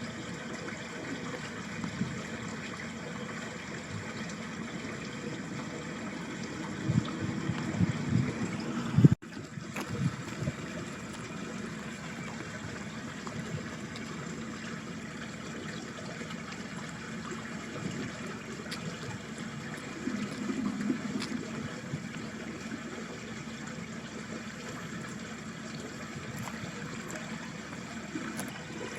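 Water of a small ditch stream trickling and gurgling steadily. Louder low rumbles swell up about a third of the way in and again about two-thirds in, and the sound cuts out for an instant at about nine seconds.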